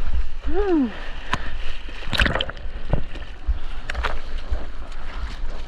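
Sea water sloshing and splashing close around a surfer's head- or board-mounted action camera in the ocean, with a few sharper splashes, the biggest about two seconds in. Wind buffets the microphone throughout.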